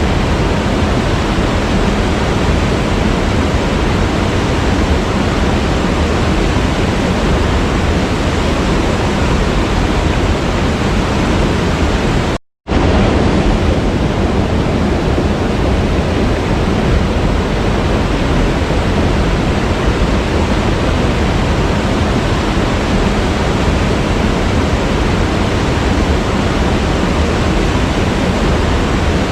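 Waterfall: steady, loud rush of falling water, briefly cutting out to silence for a split second about halfway through.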